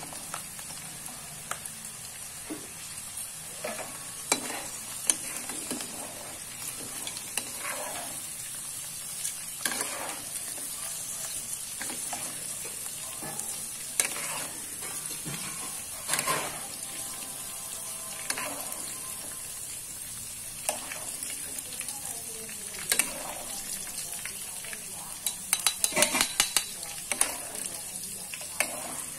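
Pieces of kabau frying in hot oil in a wok, sizzling steadily, while a metal spatula scrapes and knocks against the pan. A quick run of utensil clicks comes near the end.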